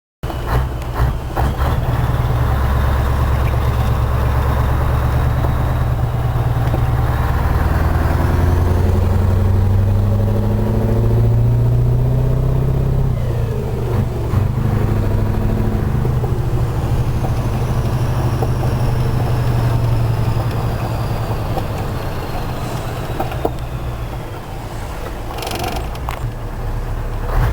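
Scania 143 450 truck's 14-litre V8 diesel engine running under load, its note rising and falling several times as it pulls, with a brief drop about halfway through.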